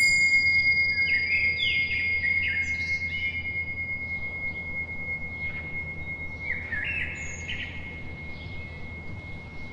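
A single high bell ringing from its strike at the start and fading slowly throughout. Birds chirp in short sweeping calls over it, in a cluster about one to three seconds in and another around seven seconds, above a low steady hum.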